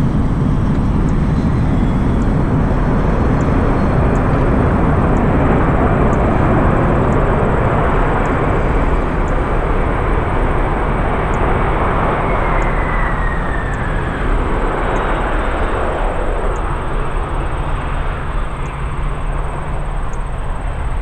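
Boeing 747-400 jet engines running loud and steady during its landing. A falling whine comes about two-thirds through, and the noise eases a little near the end.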